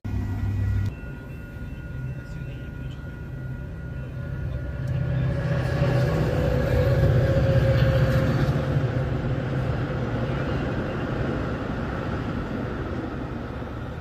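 A train passing unseen: a rumble that builds, peaks about halfway through and slowly fades, carrying a steady mid-pitched tone. A short low hum stops about a second in.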